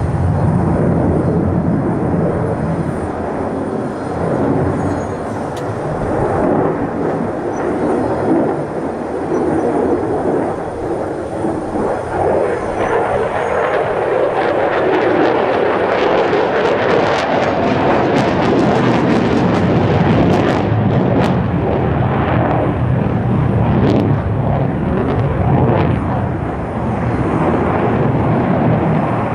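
Jet noise from an F-35A's single Pratt & Whitney F135 afterburning turbofan in a flying display. It is loud and continuous, rises in pitch about halfway through, and then carries a crackling rasp until near the end.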